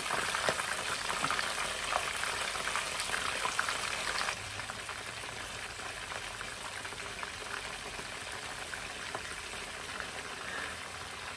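Breaded liver pieces frying in hot grease: a dense, crackling sizzle, louder for the first four seconds, then settling to a softer steady sizzle.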